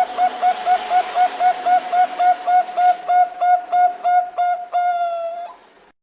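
Zebra dove (perkutut bangkok) song: a quick run of identical short cooing notes, about four a second, ending in one longer note that sinks slightly and then cuts off suddenly. It is a recorded lure song played to coax young or silent perkutut into singing.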